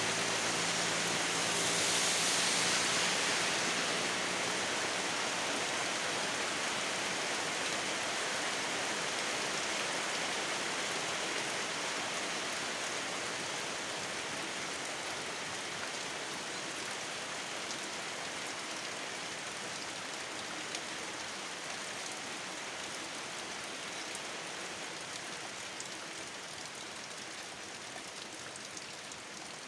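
Steady rain falling, an even hiss that slowly grows a little quieter. A low engine hum underneath fades out in the first few seconds.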